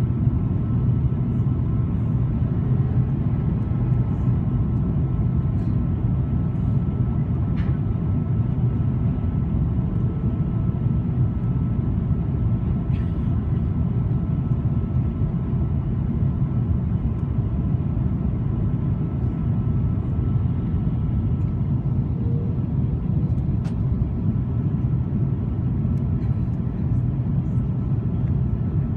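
Steady low cabin rumble of an Airbus A330-200 airliner in flight, the engines and rushing air heard from inside the cabin, with a faint steady hum over it and no change in pitch or level.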